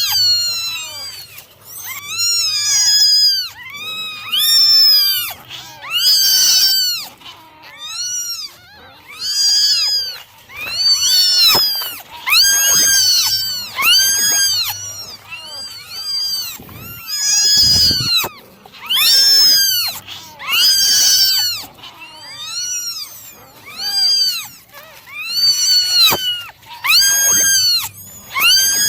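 Several kittens meowing over and over in high, thin cries, each rising and falling in pitch, about one a second with some calls overlapping.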